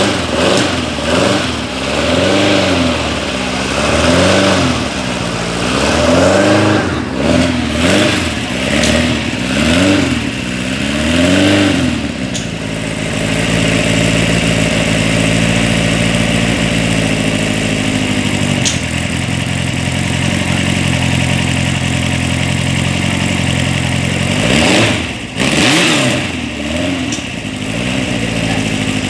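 An engine being revved in quick repeated blips, its pitch rising and falling about once a second, then settling to a steady idle about twelve seconds in. One or two more revs come near the end before it drops back to idle.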